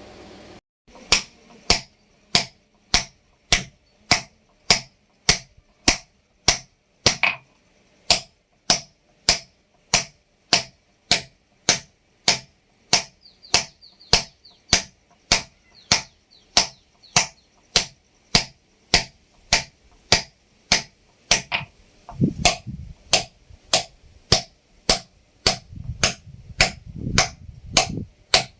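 Hammer tapping a steel chisel to re-dress a stone grinding slab: sharp, ringing strikes in an even rhythm of about two a second. Some low scraping or knocking fills the gaps near the end.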